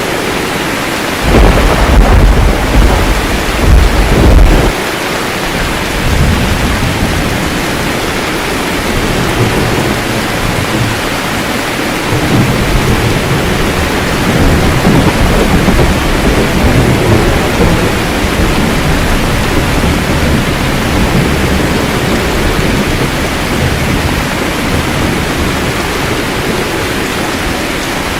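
Steady heavy rain with thunder: a loud, deep crack and rumble about a second in, then a longer, softer rolling rumble in the middle.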